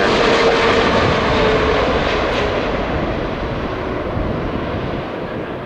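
Jet airliner flying past on its landing approach: a loud, even engine noise with a faint whine that slowly falls in pitch, the whole sound fading gradually as the aircraft moves away.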